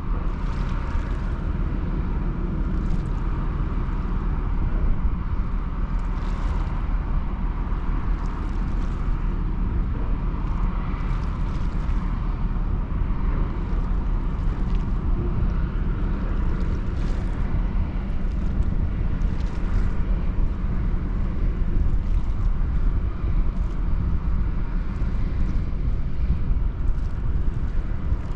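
Steady low rumble of the ro-ro passenger ferry BLUE GRACE under way, with a hiss that swells briefly every few seconds.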